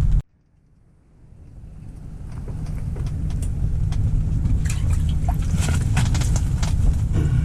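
Strong wind buffeting the microphone as a steady low rumble with faint scattered clicks. The sound cuts out abruptly just after the start and fades back up over the next few seconds.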